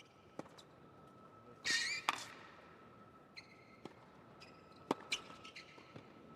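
A tennis rally: several sharp racket strikes on the ball and tennis shoes squealing on the court, the loudest squeal about two seconds in.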